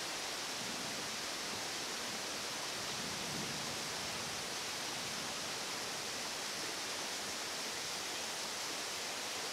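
Steady rushing of flash-flood water, an even hiss with no let-up.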